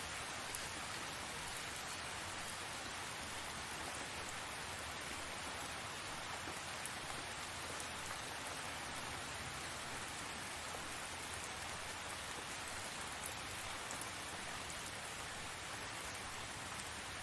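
Steady rain falling, an even hiss with a few sharper single-drop ticks scattered through it.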